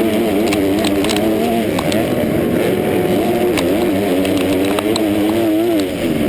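Motocross dirt bike engine running hard, its pitch rising and falling over and over as the throttle is worked. A few brief sharp clicks sound over it.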